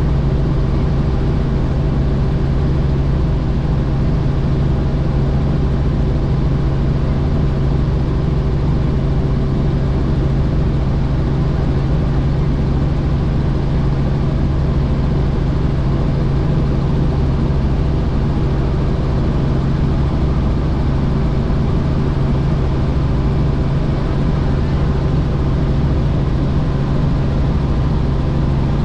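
Helicopter in flight: a steady, unchanging engine and rotor drone with a strong low hum.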